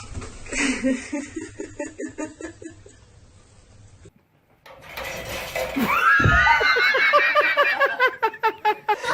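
A person laughing in rapid bursts, cut off about four seconds in; after a short gap, a louder, high-pitched laugh in quick bursts of about four a second.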